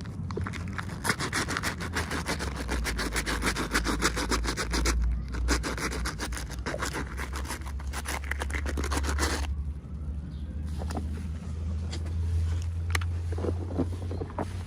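Hands handling packaging during an unboxing: dense, rapid scratchy rustling and scraping for about nine seconds, which stops abruptly. Scattered clicks and taps follow, over a steady low hum.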